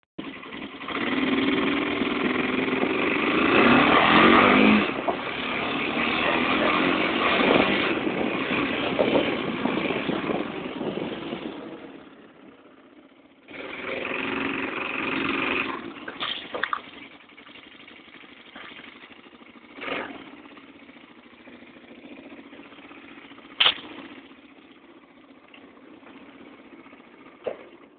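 Quad bike engine running, with a rise in pitch and loudness about four seconds in. It fades out about twelve seconds in, comes back briefly, then gives way to a low background with a few sharp knocks.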